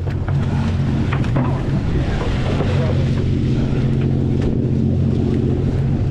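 Steady low drone of a sportfishing boat's engine, with wind rushing over the microphone and sea noise.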